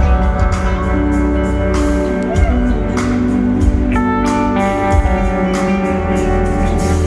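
Live rock band playing loud, with sustained electric guitar lines over bass and drums, the drum hits landing at a steady beat.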